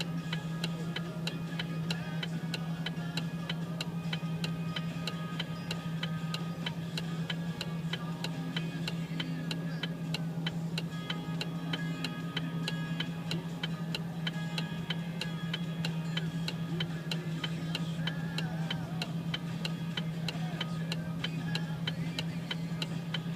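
Regular ticking, about three sharp clicks a second, over a steady low hum.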